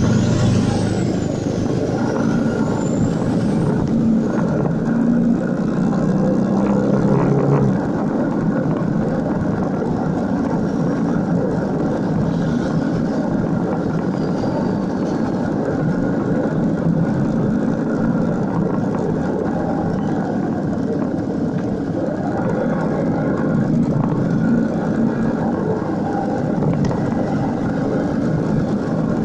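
Motorcycle engine running with road and wind noise while riding, a steady rumble throughout.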